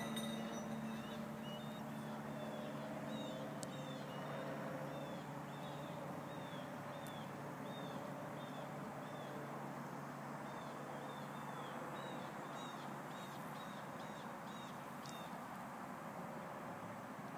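A bird calling over and over in short, high chirps, about two a second, over steady outdoor background noise.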